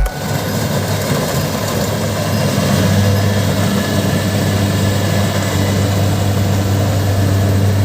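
Combine harvester engine running steadily with a low, even hum, growing a little louder a few seconds in.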